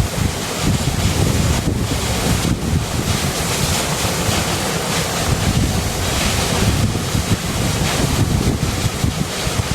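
River water rushing, a steady, unbroken wash of noise.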